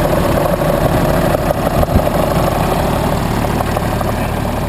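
A dump truck's engine idling steadily, with one short knock about two seconds in.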